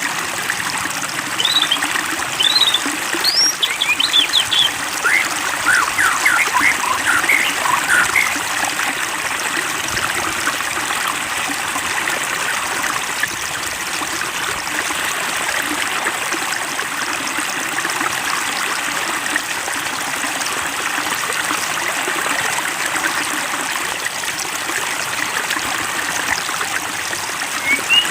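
Water trickling and splashing steadily, with busier bright gurgling plinks during the first eight seconds or so.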